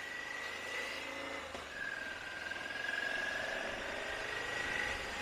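Motorcycle engine running steadily at low speed through town, with a faint steady whine above it.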